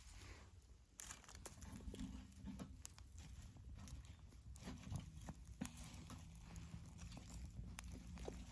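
Faint, irregular crackling and snapping of a wood bonfire, over a low rumble.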